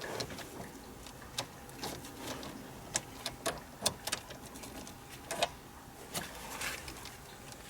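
Irregular light clicks and taps of a Ford Escape ignition lock cylinder module being turned and pushed into its housing in the steering column, not yet seating because it is not lined up with its notch.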